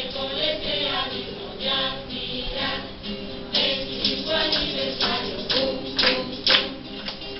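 A group of voices singing a villancico (Spanish Christmas carol) with a tambourine struck in rhythm; the tambourine comes through more strongly from about halfway.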